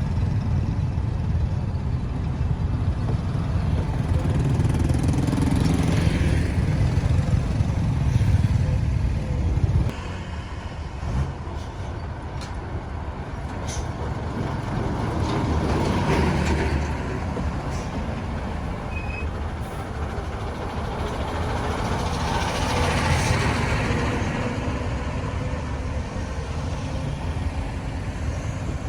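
Road traffic: vehicles driving past one after another, each swelling and fading, loudest in the first ten seconds.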